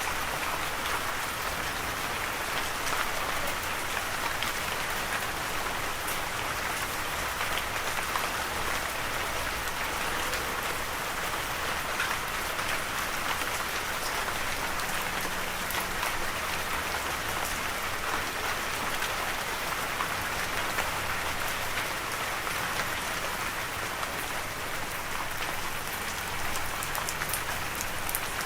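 Steady rain falling on a surface, an even patter of many drops with no thunder.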